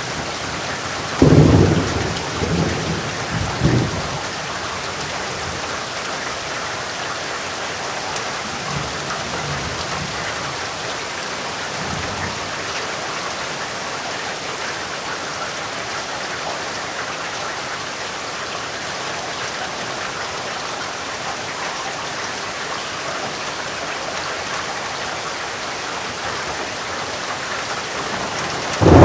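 Steady rain with thunder. A loud thunderclap about a second in rumbles away over the next few seconds, fainter rumbles follow, and another loud clap comes right at the end.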